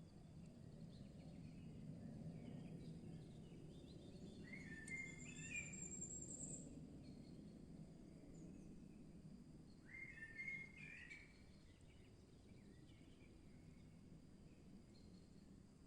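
Faint woodland birdsong: two short song phrases, about five and ten seconds in, the first with a high thin trill. Behind them is a low steady background rumble.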